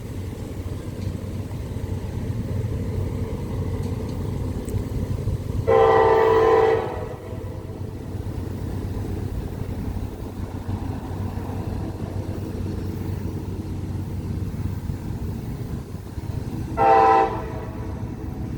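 CSX freight train locomotive sounding its air horn twice, a blast of about a second about six seconds in and a short toot near the end, over the train's steady low rumble.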